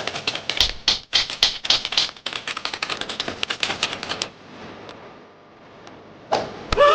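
Rapid, uneven clicking like fast typing on a keyboard, stopping about four seconds in. Near the end a short pitched cry bends up and down.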